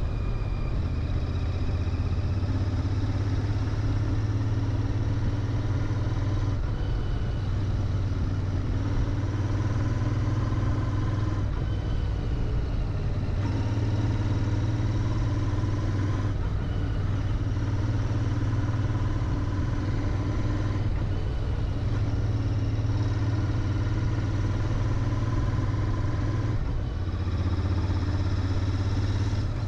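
Royal Enfield Interceptor 650's parallel-twin engine running through its stock mufflers while riding, with the engine note shifting every few seconds.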